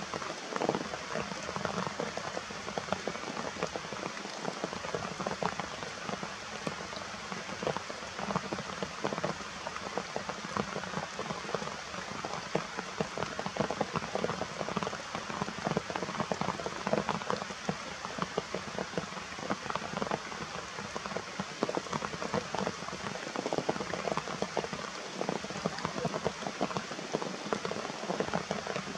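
Steady rain falling, with a dense stream of individual drop hits.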